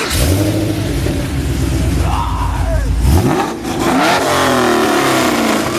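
Car engine revved with a sudden blip at the start and held high for about three seconds, then the revs rise briefly and fall away toward the end.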